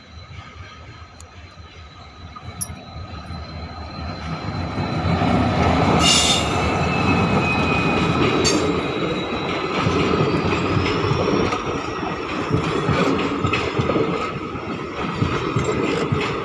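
Saraighat Express passenger train running on the rails, its rumble growing louder over the first five seconds and then holding steady, with high thin squeals from the steel wheels.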